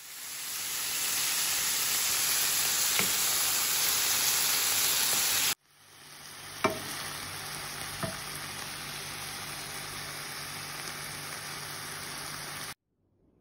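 Diced chicken sizzling as it fries in a pan, stirred with a wooden spatula. The sizzle is loud at first and cuts off abruptly after about five seconds. It then comes back quieter, with two sharp knocks of the spatula on the pan, and stops shortly before the end.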